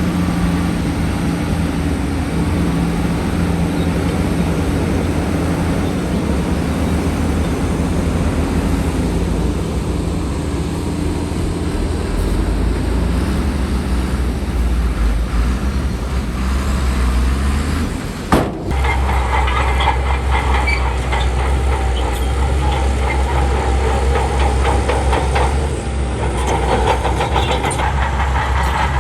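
Heavy diesel engine of earthmoving machinery running steadily. A little past halfway the sound cuts abruptly, and a dense rattling joins the engine after it.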